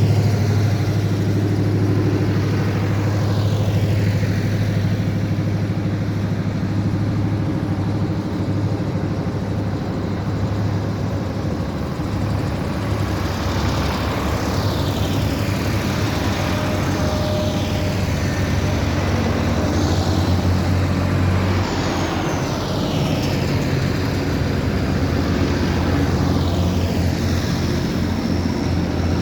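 A line of tractors driving past one after another, their engines running steadily, the pitch dropping as each one goes by.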